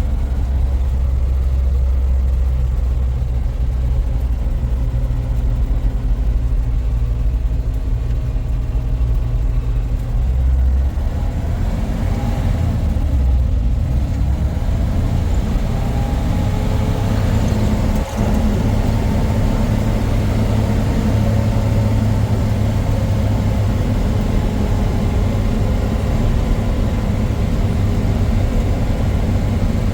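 A motor vehicle's engine running steadily, its low drone shifting about eleven seconds in and its pitch slowly rising and falling after that.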